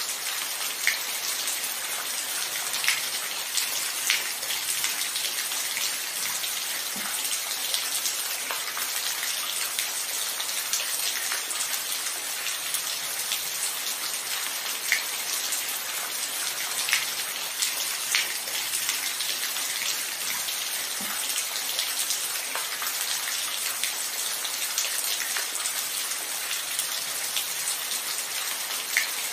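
Steady rainfall: an even hiss of rain with individual drops ticking sharply every second or two.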